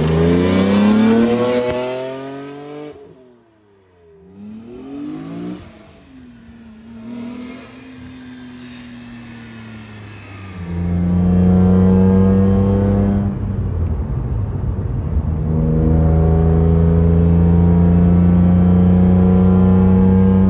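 BMW E46 M3's S54 3.2-litre straight-six breathing through a Karbonius CSL carbon airbox, with a loud intake note. It revs hard with a rising pitch for the first few seconds, then falls away and goes quieter. From about eleven seconds in it holds a loud steady drone at constant revs, with a brief dip a couple of seconds later.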